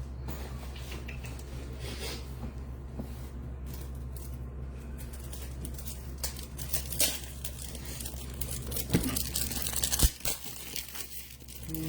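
Crinkling and rustling of plastic packaging as card supplies are handled and dug through, with a couple of sharp clicks about nine and ten seconds in.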